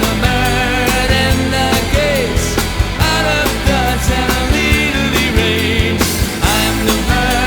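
Pop-rock band song playing, with drums keeping a steady beat under bass and a melody line that slides in pitch.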